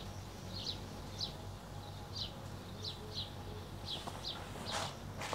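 A small bird chirping repeatedly, short high chirps about two a second, over a faint steady low hum. A brief burst of noise comes near the end.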